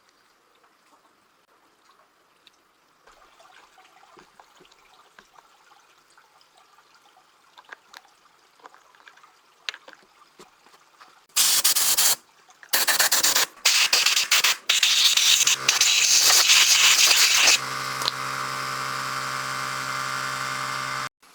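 Several loud hissing bursts like a spray or air blast, then a steady machine hum for about three seconds that cuts off suddenly.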